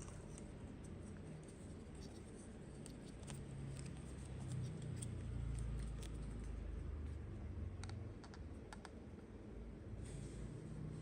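Small plastic toy pieces being handled: a scatter of light clicks and taps, thickest in the middle, over a low rumble of handling.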